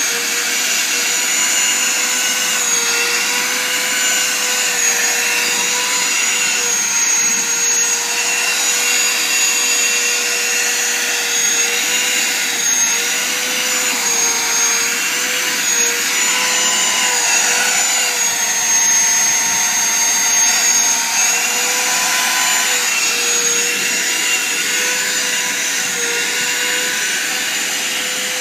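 Vacuum cleaner running steadily while it is used to vacuum loose fur off a cat, its motor whine dipping slightly in pitch now and then as the suction load changes.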